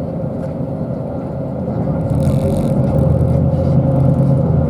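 Bus engine and road noise heard from inside a moving bus: a steady low hum with a held tone, growing louder about two seconds in. A short hiss comes soon after.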